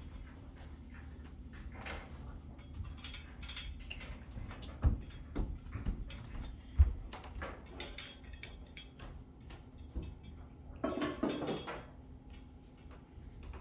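Handling noise as a rack is wiped down and moved: scattered light clicks and knocks, two sharper knocks about five and seven seconds in, and a stretch of rubbing near the end.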